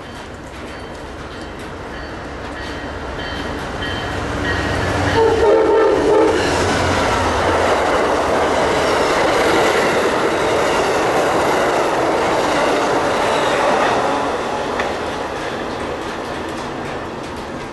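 A train passing on the tracks, with a short horn blast about five seconds in. Its wheel-on-rail noise builds, holds, then fades near the end.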